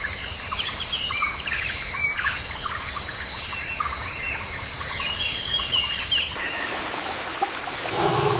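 Rainforest ambience: birds chirping and calling over a steady high insect drone, which stops about six seconds in. A brief lower sound comes near the end.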